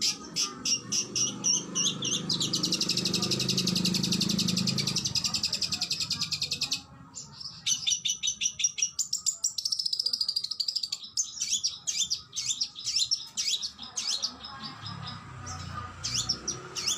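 Oriental magpie-robin (kacer) singing: a string of sharp repeated notes, then a fast rapid-fire rattle for about five seconds, then varied whistled phrases. This rapid-fire volley is the 'tembakan' delivery prized in contest birds.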